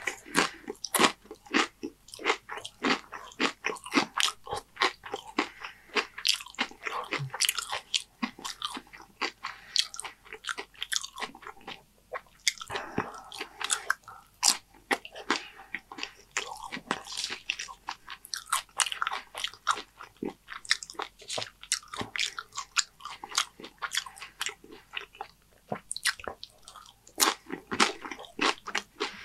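Close-miked crunching and chewing of Dorito-chip nachos in the mouth: a dense run of sharp crunches, easing off briefly twice.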